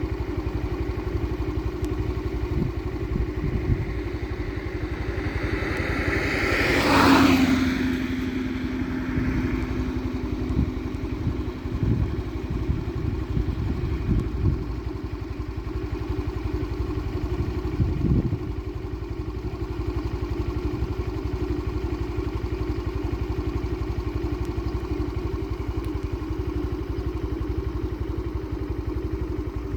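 A steady, motor-like drone with a few scattered thuds. About seven seconds in, a louder sound swells up and settles into a held low tone for about four seconds.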